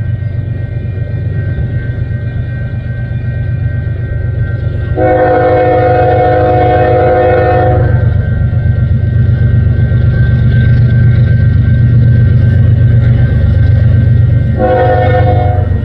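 Union Pacific freight train's diesel locomotives approaching with a heavy low rumble that grows louder, the locomotive horn sounding a chord in one long blast of about three seconds, then again near the end.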